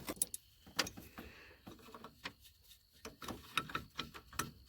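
Scattered light clicks and taps of a wrench working loose the oil cooler line fittings at a truck radiator, a dozen or so short knocks at irregular spacing.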